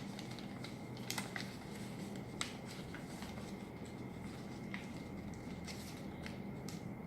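Sheet of paper being folded and creased by hand: scattered short crinkles and taps, over a faint steady hum.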